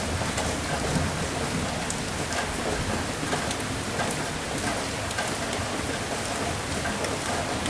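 Steady heavy rain with many small drop ticks, and a low rumble of thunder dying away in the first second or two.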